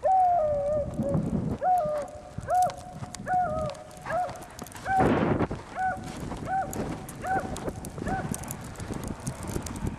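A neighbor's dog barking in a steady series of about ten short barks, a little more than one a second, with a couple of louder crunching noises among them.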